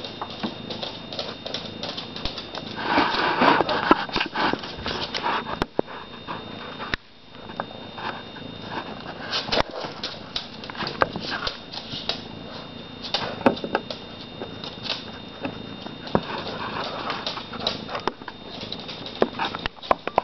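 Kittens moving about close to the microphone: many small clicks and rustles, busiest about three to five seconds in, over a thin steady high tone.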